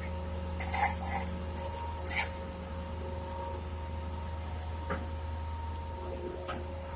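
Diesel engine of the loading machinery running steadily with a low hum, with a few short hissing, scraping bursts about a second in and again about two seconds in.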